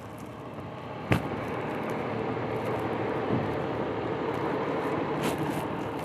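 Steady rumble of a vehicle that swells about a second in and then holds, with a sharp knock at that moment and another click near the end.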